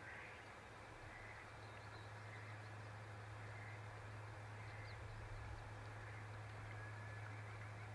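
Faint, scattered bird calls over a steady low hum.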